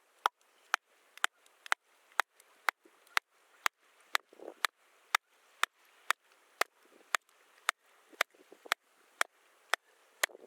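A knife chopping on a cutting board in a steady rhythm of sharp clicks, about two a second.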